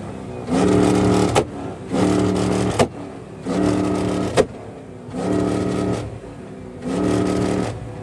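Car engine revved hard five times in a row, each rev held at a steady pitch for under a second before the throttle snaps shut. A sharp exhaust crack ends each of the first three revs.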